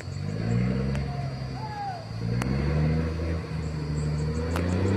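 Truck engine revving, its pitch climbing in three rises, from a truck stuck in deep mud. A few sharp clicks sound over it.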